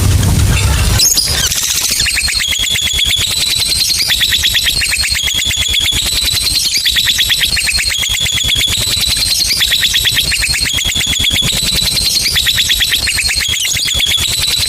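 Lovebird's long ngekek chattering trill, a very fast rattle of sharp high-pitched notes running on in continuous phrases, starting about two seconds in.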